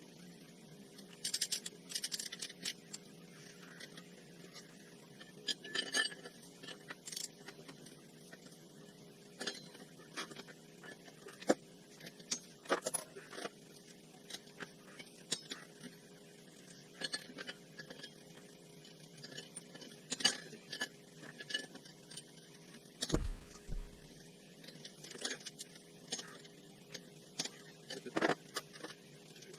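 Metal tools and parts being handled during hand work on an ATV wheel hub: scattered light clinks, clicks and scrapes, with one dull thump about 23 seconds in.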